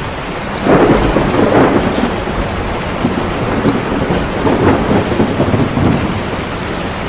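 Steady heavy rain with rolling thunder: a roll of thunder swells about a second in and another rumbles through the middle.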